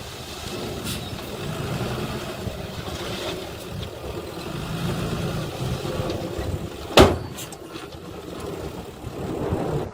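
Engine of heavy earthmoving machinery, a dump truck or bulldozer, running steadily, with a single sharp bang about two-thirds of the way through.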